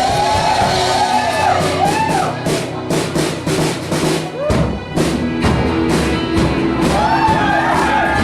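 Live rock band playing: drum kit, bass, two guitars and keyboard, with a sung melody. A run of heavy drum hits comes in the middle, the bass line shifts about four and a half seconds in, and the vocal melody returns near the end.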